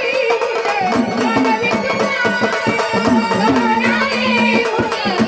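Marathi gondhal devotional folk music: hand drums and bright metal cymbals keep a fast, steady rhythm under a gliding, ornamented melody line, with one note held about four seconds in.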